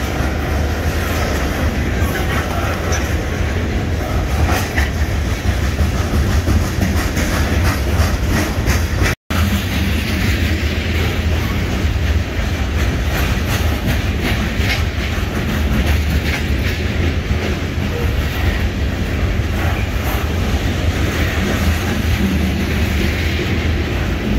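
Freight train of coke hopper cars rolling past close by: a loud, steady rumble with wheels clicking over the rail joints. The sound cuts out for an instant about nine seconds in.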